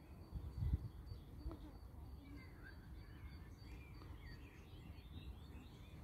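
Faint songbirds chirping now and then over a steady low rumble, with a soft low bump about half a second in.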